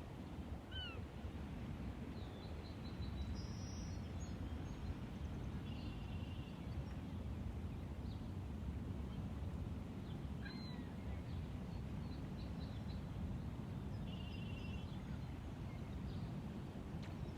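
Outdoor park ambience: a steady low rumble of background noise, with scattered chirps and short fast trills from small birds. The chirps come near the start and again about ten seconds in, and the trills come about six seconds in and again near fourteen seconds.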